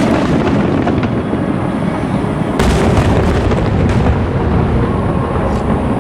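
Aerial firework shells bursting in deep booms over a continuous rolling rumble, with a sharp, loud burst about two and a half seconds in.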